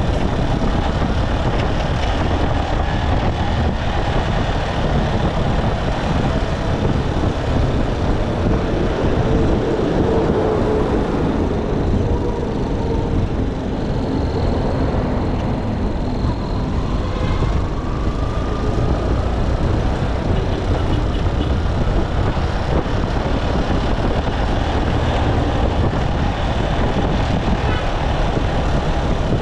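Motorcycle engine running under way, mixed with road and wind noise, steady throughout. A faint rising tone comes through in the middle.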